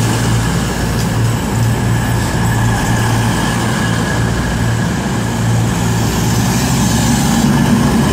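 CrossCountry Voyager diesel-electric multiple units standing at the platform, their underfloor diesel engines idling with a steady low hum.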